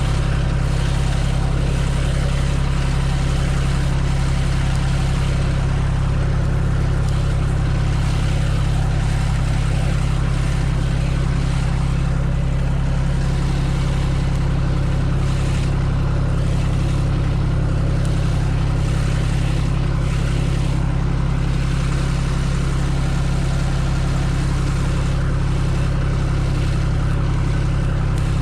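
A tractor engine runs steadily with a constant low drone, as used for moving round bales.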